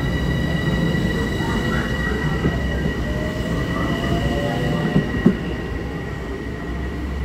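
LIRR M7 electric multiple-unit train pulling out past the platform: a steady high electric whine from its traction motors over rolling wheel rumble. There are two sharp clicks about five seconds in, and the whine fades as the last car goes by.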